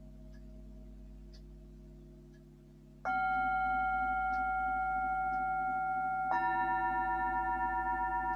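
Himalayan singing bowls struck one after another. A faint ringing fades for the first three seconds, then one bowl is struck about three seconds in and a second, lower-pitched bowl about six seconds in, both ringing on together with a slow wavering.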